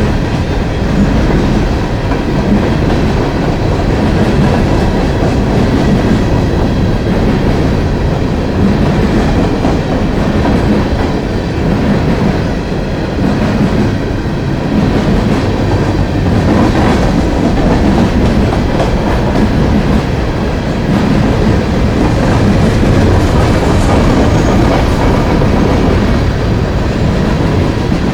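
Long coal train's railroad cars rolling past on the rails in a steady, unbroken run of wheel noise.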